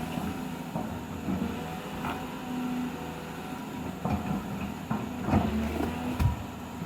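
Heavy diesel machinery, likely the excavator, running steadily under load, with a few sharp metallic clanks and knocks about four, five and six seconds in.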